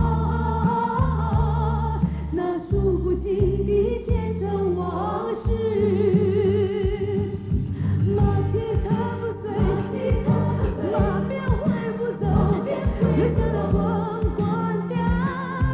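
A sung ballad with a singer's voice wavering in vibrato over held bass notes, the drama's theme song.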